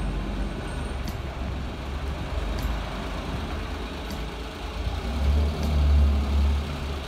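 Small hatchback's engine running as the car pulls up in an underground car park, a low rumble that swells louder about five seconds in and eases off near the end.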